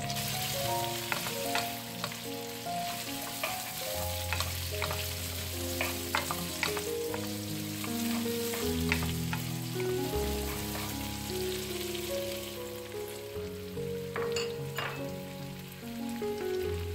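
Vienna sausages, garlic and onion sizzling in a hot nonstick pan, stirred with a wooden spatula that scrapes and knocks against the pan. Near the end a batch of cut bell pepper is dropped in with a cluster of clicks, over soft background music.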